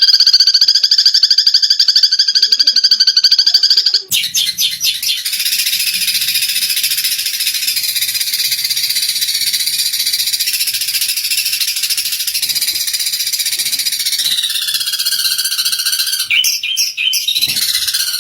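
Eurasian tree sparrows in agitated fighting chatter: a buzzy, rapidly pulsed trill for the first four seconds, then a dense, high, continuous chattering, with the pulsed trill returning near the end.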